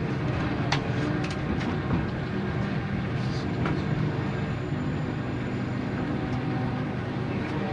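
Cabin noise inside a 485 series electric train drawing into a station: a steady hum of several held tones over a low rumble, with a few sharp clicks in the first two seconds.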